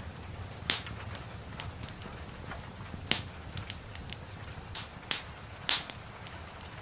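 Wood fire crackling in a fireplace, with irregular sharp pops (three louder ones) over a steady low rumble and a soft hiss of rain.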